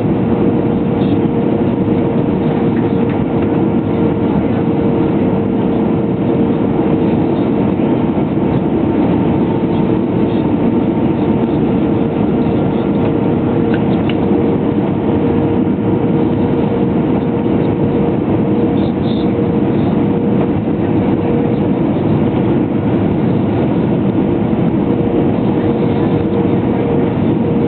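Jet airliner cabin noise on final approach: the engines and airflow make a steady, unbroken drone with a constant hum running through it.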